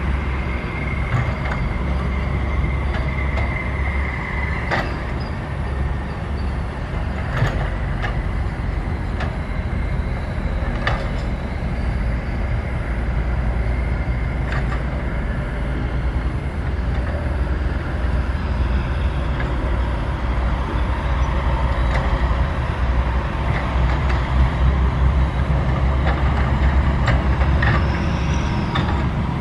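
Sany SY135F excavator running under load, its diesel engine giving a steady low rumble, with occasional sharp metallic clanks.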